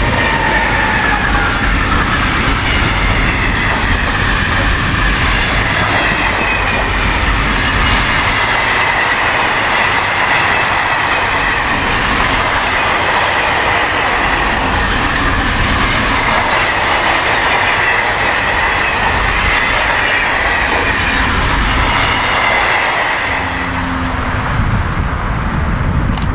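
Container freight train's wagons rolling past close by: a steady, loud rush of wheels on rails with a faint high whine from the wheels running through it.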